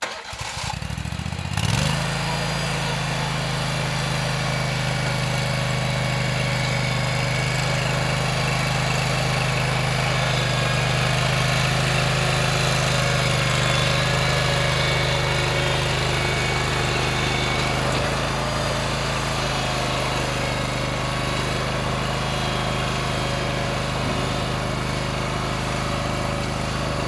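Stump grinder's engine starting up, coming up to speed over about two seconds and then running steadily.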